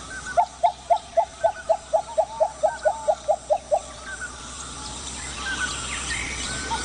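An animal or bird calling in a rapid run of short, clear notes, about four a second, that stops a little past halfway, followed by faint bird chirps over an outdoor background.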